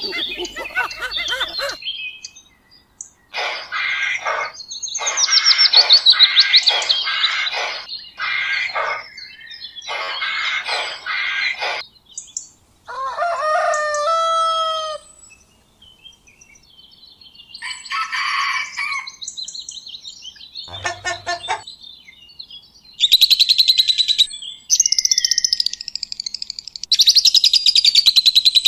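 A series of different bird calls played one after another with short gaps: bursts of rapid chirping, a drawn-out pitched call about halfway, a short clicking rattle, then loud high trills near the end.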